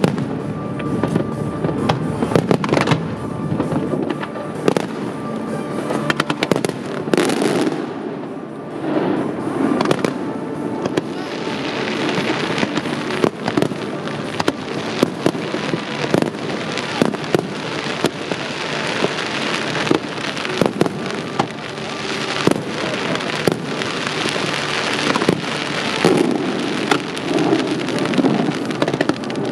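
Aerial fireworks display: an irregular run of shell bursts and bangs with crackle between them, the crackle and hiss thickening through the middle.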